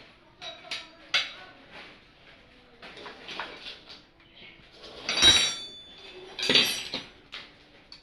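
Metal tools and engine parts knocking and clinking during assembly of a Honda CB engine. The clinks come irregularly, with two louder clanks about five and six and a half seconds in, the first ringing briefly.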